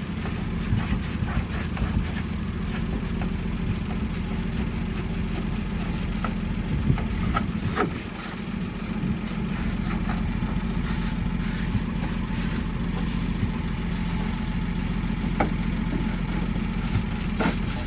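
An engine running steadily at a constant speed, with scattered light clicks and knocks over it.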